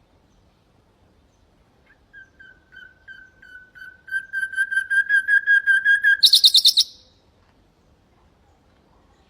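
Common nightingale song phrase: a run of repeated whistled notes, soft at first, then faster and louder, ending in a short harsh high-pitched flourish.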